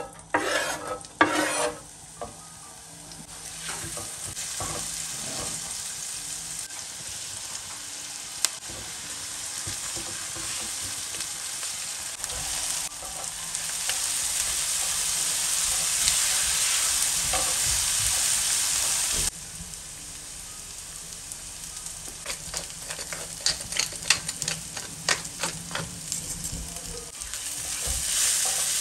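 Diced onion, green bell pepper and tomato sizzling in hot oil in a nonstick frying pan, stirred with a silicone spatula that knocks and scrapes against the pan. A few sharp scrapes and clatters at the start as the onion is pushed off a wooden board into the pan with a knife; the sizzle grows louder about halfway through, and a run of stirring clicks comes in the second half.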